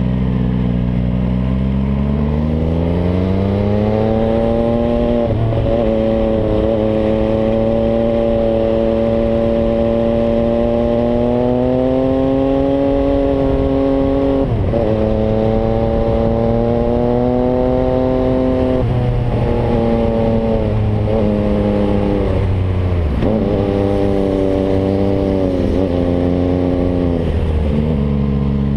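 MV Agusta Brutale 800's three-cylinder engine through a Zero aftermarket exhaust, running under way. Revs climb over the first few seconds and hold steady, then dip sharply and pick up again about halfway through and several more times near the end, settling lower at the close.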